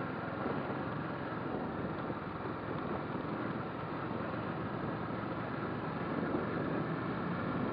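Motorcycle riding at a steady pace: a continuous rush of wind and road noise over the running engine, heard on a rider's microphone.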